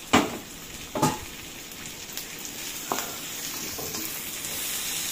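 Capsicum, carrot and onion sizzling steadily in a hot iron wok on a high gas flame as they are tossed and stirred with a wooden spatula. There are three sharp knocks against the wok: two in the first second and a lighter one about three seconds in.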